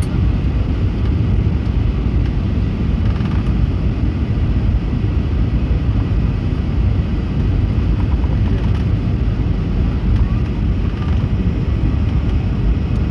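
Steady low cabin noise inside an Airbus A320neo descending to land: engine and airflow noise heard from a passenger seat.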